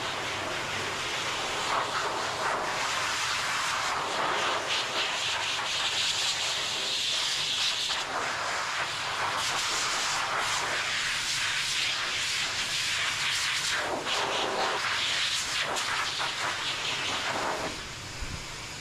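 Pet grooming dryer blowing air into a thick, damp dog coat: a steady rushing hiss whose tone shifts now and then, falling off shortly before the end.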